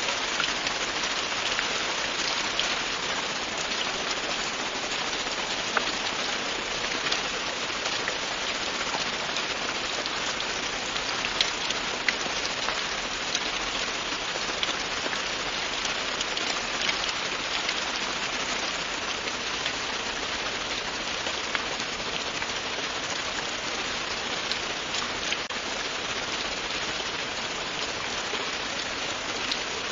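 Steady, continuous rain falling on a surface, a dense hiss dotted with many small individual drop ticks.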